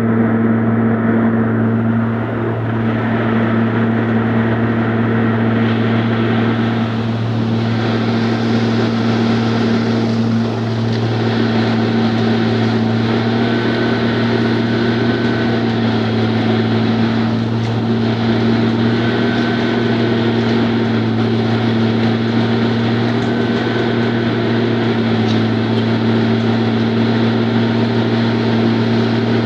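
Engine of road-repair machinery running steadily at a constant speed, with a strong, even low hum.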